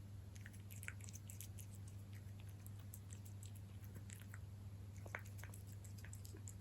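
A cat chewing and lapping wet cat food, with faint, irregular little wet clicks and smacks. A steady low hum runs underneath.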